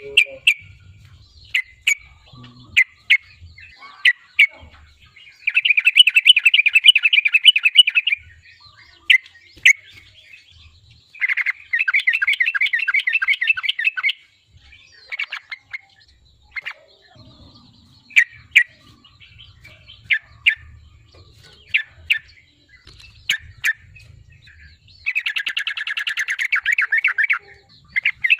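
Yellow-vented bulbul (trucukan) singing vigorously: scattered short, sharp chirps broken by three rapid chattering trills of about two and a half seconds each, the first about five seconds in, the next around eleven seconds and the last near the end.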